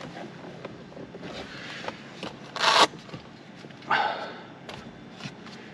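Hands working on car interior parts and a cable connector: a short rustle or scrape a bit past halfway, another about a second later, and a few light clicks near the end.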